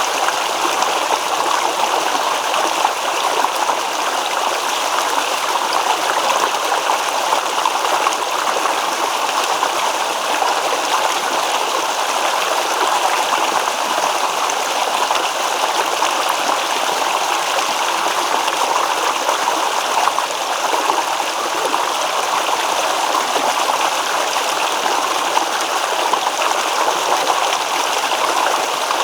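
Small stream babbling and rippling over stones, a steady even water sound.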